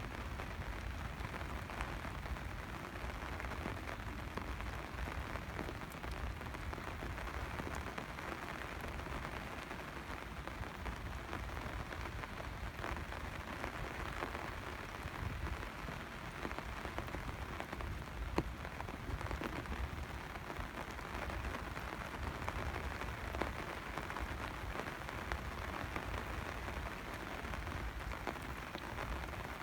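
Steady rain falling and pattering on surfaces, with an occasional sharper drop tick.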